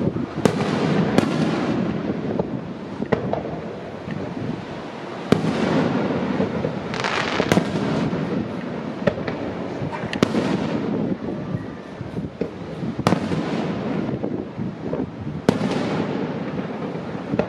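Aerial firework shells bursting one after another: a sharp bang every two to three seconds over continuous crackling noise.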